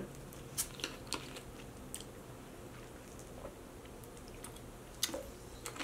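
Quiet close-miked eating sounds: scattered soft clicks and smacks of chewing and mouth noise, while a plastic bottle of drink is handled and sipped from.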